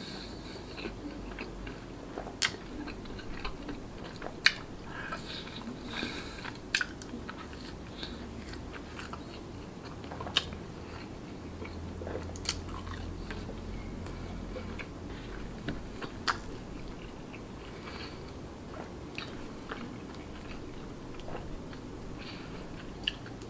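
A person chewing and biting soft chicken cheese naan up close, with sharp mouth clicks and smacks every second or two.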